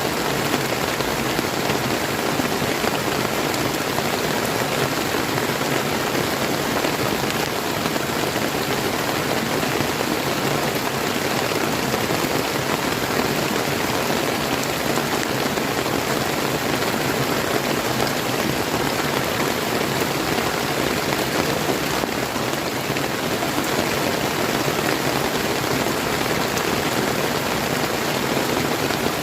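Steady rain falling, mixed with the flow of a clear river.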